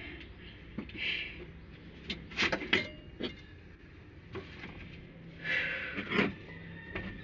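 Hand tools and metal engine parts clinking and knocking, with a cluster of sharp knocks and a brief ringing tone about two and a half seconds in, and a short scraping rustle near six seconds.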